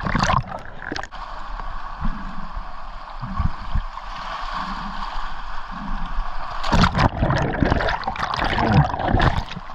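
Water gurgling and sloshing around a diver's action camera, over a steady hiss, with louder splashing from about seven seconds in.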